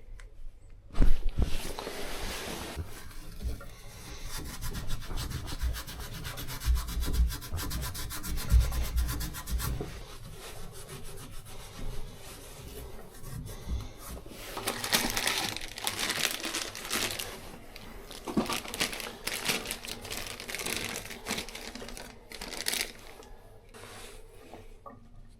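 Rubbing or scraping strokes worked by hand against a hard surface, like sanding, with low thuds in the first half and a louder, harsher stretch about fifteen seconds in.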